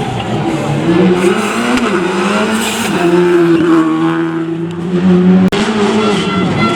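Rally car engine at high revs, its pitch rising and falling as it changes gear, held fairly steady for a couple of seconds in the middle. The sound breaks off for an instant about five and a half seconds in and resumes.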